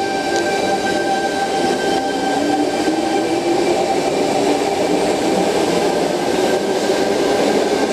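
Sydney Trains Tangara electric multiple unit departing an underground platform, running past loud and steady, with a whine that slowly rises as it picks up speed.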